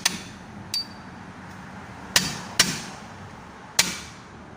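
Hammer striking metal: a light tap with a brief ringing note about a second in, then three hard blows, two close together and one more about a second later.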